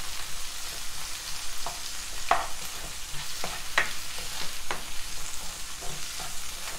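Chopped onions and tomatoes sizzling in hot oil in a nonstick kadai while a spatula stirs them. The spatula clicks and scrapes against the pan about once a second.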